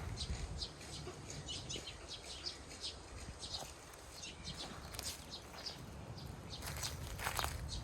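Small birds chirping, many short high calls scattered throughout and thicker near the end, over a low steady rumble.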